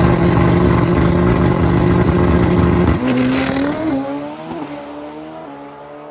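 Drag racing motorcycle engine at high revs, then pulling away down the strip: its pitch climbs and drops back at each gear change, three times, as it fades into the distance.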